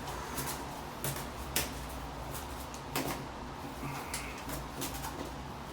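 A few scattered light knocks and bumps with a steady low hum under them, and a brief high squeak about four seconds in.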